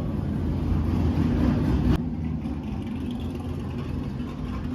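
Car engine running steadily with a low, even sound; the sound changes abruptly about two seconds in.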